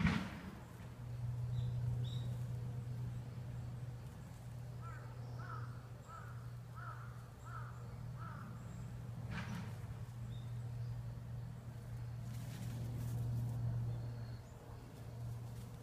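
A bird calling about six times in quick succession, a little under two calls a second, over a steady low hum. A sharp knock sounds at the very start and another a little after the middle.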